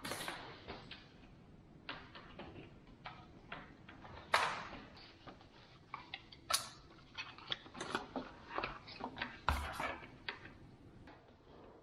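Irregular clicks, knocks and a few scrapes of hand assembly work on IKEA kitchen cabinet parts, coming in quick clusters in the second half, with one low thud about two-thirds of the way in.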